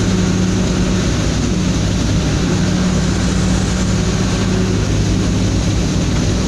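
Cargo truck engine droning steadily, with a constant hiss of road and rain noise over it.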